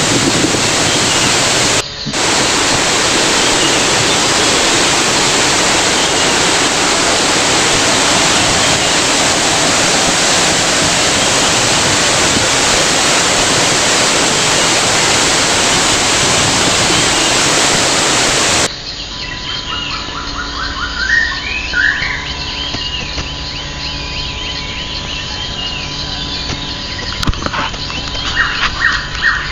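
Waterfall running, a loud steady wash of water noise, broken by a brief dip about two seconds in. About two-thirds through it cuts abruptly to a quieter bed where birds chirp repeatedly over a faint steady high tone.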